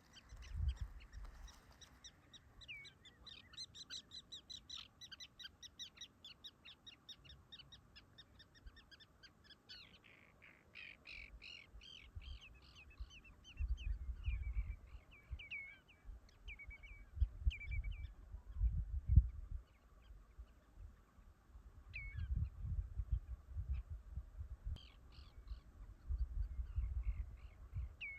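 A bird calling: a fast run of short, high chirps, then a series of separate down-curving call notes. Irregular low rumbles run underneath.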